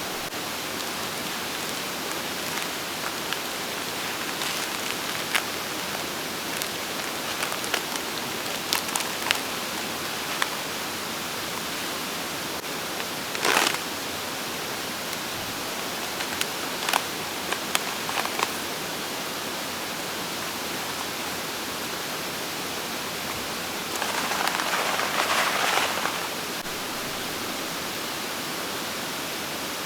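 Steady rushing of a mountain stream. Scattered small clicks and knocks come over it, and about 24 seconds in there is a louder hiss lasting about two seconds.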